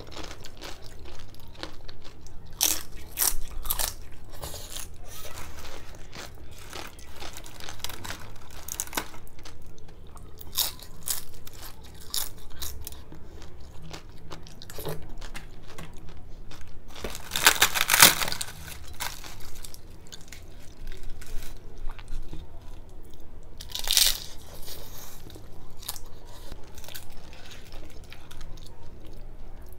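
Close-miked chewing and crunching of crisp, hard-fried puri dipped in potato curry, a run of many short crunches. The loudest crunches come a little past halfway and again about six seconds later.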